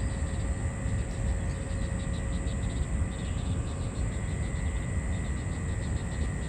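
Outdoor ambience: insects chirring in rapid, steady pulses with a constant high tone, over a steady low rumble.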